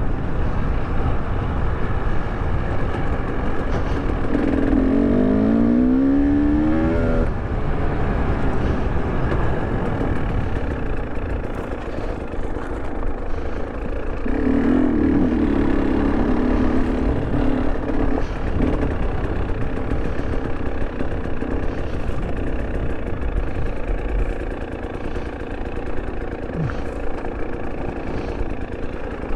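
A 2023 KTM 300 Erzbergrodeo's two-stroke engine running while the bike is ridden off-road. It revs up in rising sweeps about four to seven seconds in and holds a steady pitch around the middle, over a constant low rumble.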